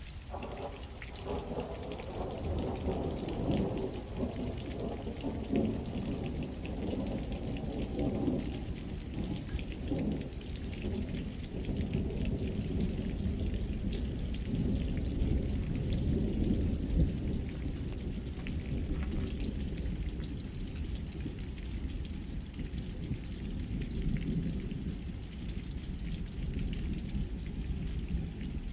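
Thunder rumbling and rolling on without a break, over the steady hiss of rain falling.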